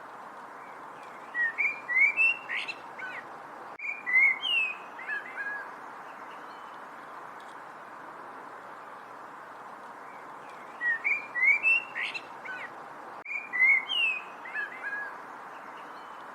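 Songbirds chirping: short clusters of quick whistled notes that slide up and down, in two bursts about nine seconds apart, over a steady hiss.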